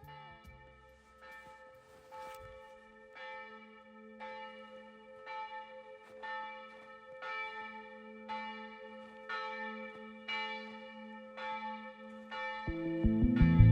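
A bell tolling steadily, struck about once a second, each stroke ringing out and fading over a steady low hum. Loud music comes in near the end.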